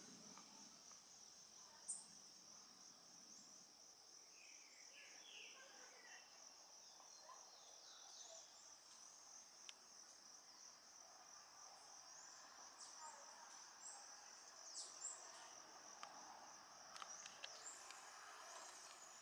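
Faint, steady, high-pitched insect trill running throughout, with a few short, faint bird chirps over it.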